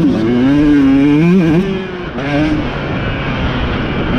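Off-road racing motorcycle engine revving hard close by, its pitch rising and dipping with the throttle. About one and a half seconds in the loudest engine drops away and the sound goes quieter, with engines still running.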